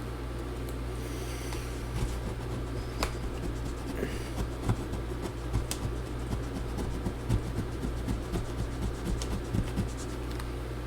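Small scratching, rubbing and irregular light taps of a hand tool working at leftover battery adhesive inside an opened MacBook Pro, over a steady low hum.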